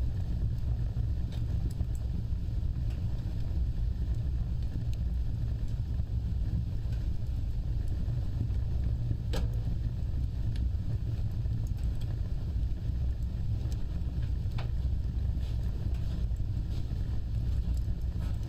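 Wood fire burning, with a steady low rumble of flames and scattered crackles, and one louder pop about nine seconds in.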